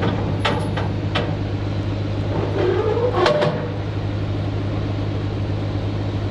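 Heavy diesel engine idling steadily with a low hum. A few sharp knocks come in the first second or so, and a short gliding metallic squeal about three seconds in.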